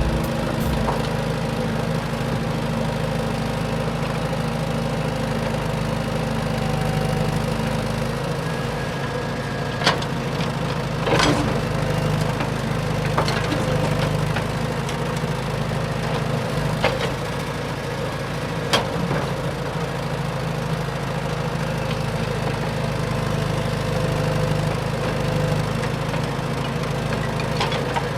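Radio-controlled dump truck running steadily with an even, idling-like engine hum, broken by a few sharp clicks or knocks.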